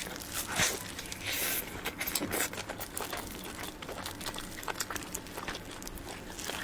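Close-miked eating of soft cream-filled cake roll: a run of small wet mouth clicks and smacks as it is chewed, with a short crinkling rustle about a second and a half in.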